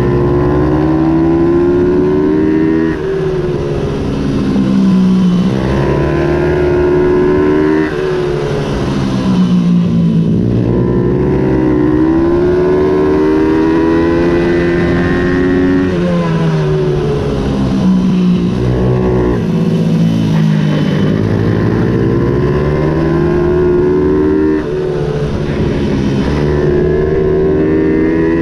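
Ohvale 110 minibike's small single-cylinder engine racing, its pitch rising hard as it accelerates and falling back every few seconds as the throttle shuts off for corners and gear changes.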